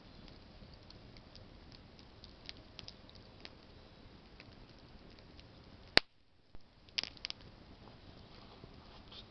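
Campfire of burning branches crackling, with scattered sharp pops over a low steady hiss of the flames. One much louder pop comes about six seconds in, and right after it the sound briefly drops out.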